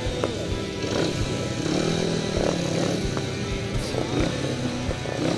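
Speedway motorcycle's single-cylinder engine running at low revs, rising and falling once about two seconds in.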